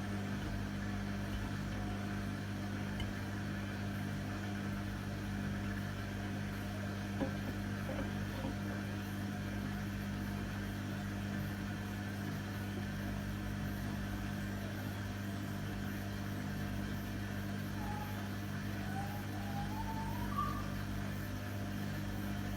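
Hotpoint WMA30 washing machine running steadily with a constant hum while it makes repeated spin attempts that fail because the load is unbalanced. A faint rising chirp is heard near the end.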